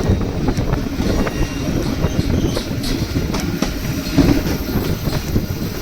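Narrow-gauge passenger train of the White Pass & Yukon Route rolling along the track: a steady low rumble with irregular clacks and rattles.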